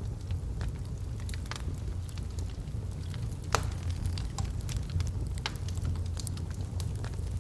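Wood fire burning in a fireplace: a steady low rumble with scattered crackles and pops of the burning logs, one sharper pop about three and a half seconds in.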